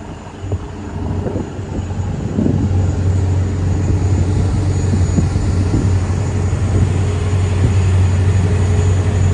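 Engine running with a steady low hum that grows louder over the first two or three seconds, with faint scattered knocks above it.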